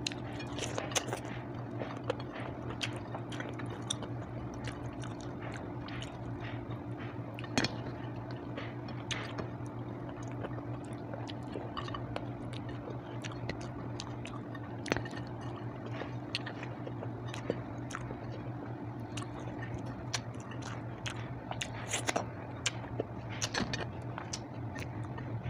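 Close-miked chewing and wet mouth sounds of someone eating sautéed vegetables and rice by hand, with small scattered clicks as fingers pick food from the plate, over a steady low hum.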